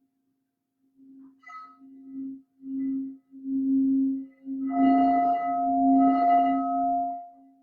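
Singing bowls: a low bowl's tone swelling and fading in pulses about once a second, while a higher bowl is struck about a second and a half in, then again twice near the end, its ringing overtones sustaining.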